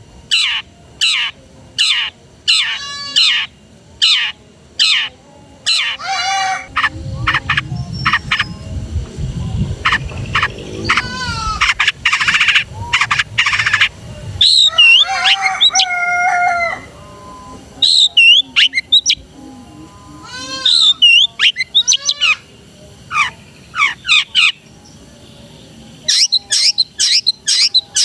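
Long-tailed shrike (cendet) singing a varied, loud song. Fast runs of sharp repeated notes alternate with sweeping phrases that imitate the calls of other birds, in bursts separated by short pauses.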